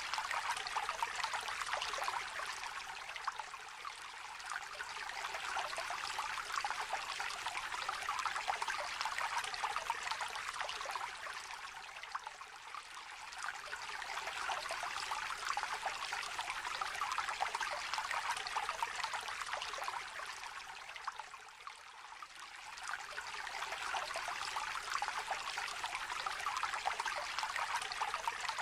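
Small river trickling, a steady rushing of water that swells and eases about every nine seconds.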